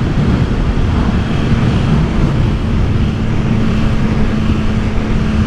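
Motorcycle engine running at riding speed with wind rushing over the helmet microphone; a steady engine hum comes in about halfway through as the bike holds a constant speed.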